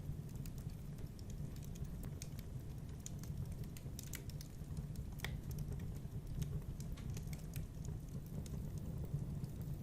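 Wood fire in a fireplace crackling: irregular sharp crackles and pops over a steady low rumble of the flames, with one louder pop about five seconds in.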